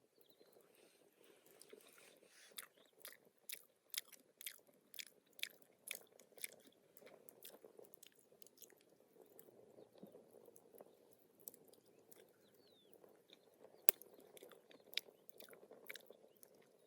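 A person chewing and biting food, with a run of crisp crunchy clicks about twice a second over the first several seconds, then sparser ones and one sharp click near the end.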